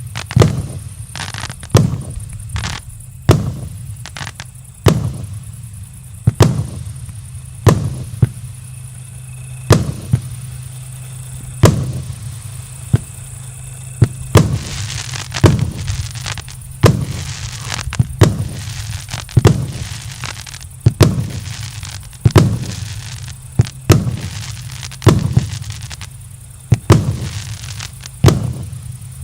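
A fan-type firework battery (cake) firing shot after shot, sharp bangs mostly about one a second. About halfway through, crackling effects fizz for a couple of seconds.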